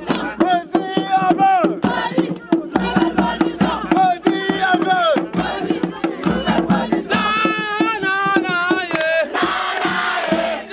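A group of voices singing and chanting over a fast percussive beat. About a second before the end the singing gives way to a brief burst of noisy crowd shouting.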